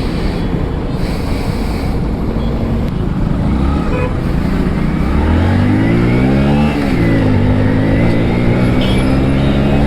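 Motorcycle engine pulling away, its pitch rising for a couple of seconds, then dropping sharply at a gear change about seven seconds in and settling to a steady run, under constant wind rush on the helmet-mounted microphone.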